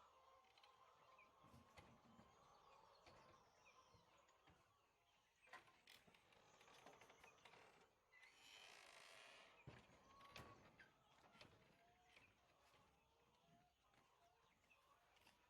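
Faint bird chirps and short peeps, with a few soft knocks and a brief hiss about eight seconds in.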